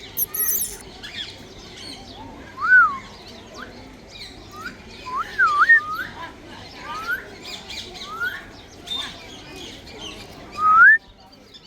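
African grey parrot whistling: a string of about seven short, clear whistles that swoop up and down in pitch, with softer chirps between them. It ends on a rising whistle that stops abruptly.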